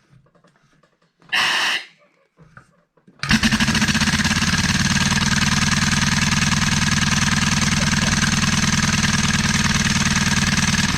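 Old small engine converted to run on compressed air, starting abruptly about three seconds in and running fast and steady with a rapid, even pulsing beat, then dying away near the end. A short noise comes a second or so before it starts.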